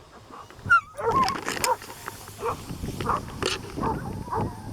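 Dogs giving short excited whines and yips, with the crackle and rustle of undergrowth as they push through it, starting about a second in.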